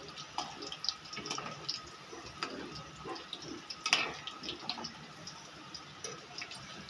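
Brinjal pieces sizzling and crackling as they fry in hot oil in a kadhai, a dense run of small irregular pops, with one sharper click about four seconds in.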